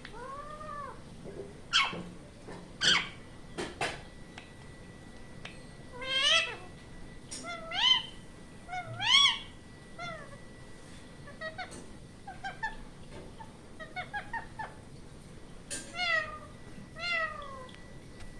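Ringneck parrot calling in a string of short pitched calls, some rising and some arching up and down, with a few sharp screeches in the first few seconds.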